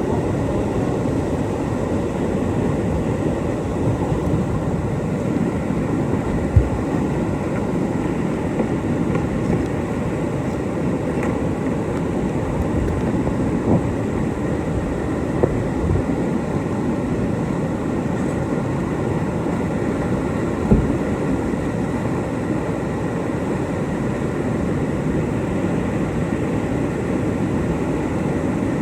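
Steady low roar of whitewater rapids, with a few brief knocks.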